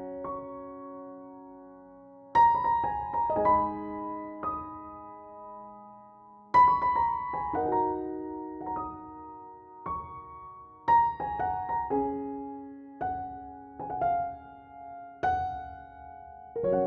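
Background piano music: slow, gentle phrases of struck chords and single notes, each left to ring and fade, with short pauses between phrases.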